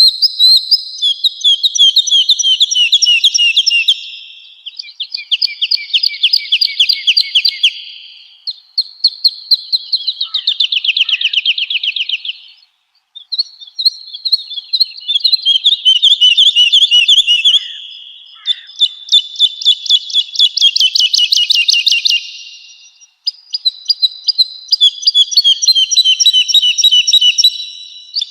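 Woodlark singing: a run of phrases, each a few seconds long, made of fast repeated whistled notes, with short pauses between phrases.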